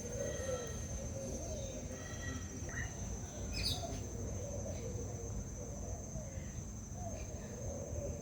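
Aviary ambience: a steady high-pitched insect drone, with bird calls over it and one sharp falling call about three and a half seconds in.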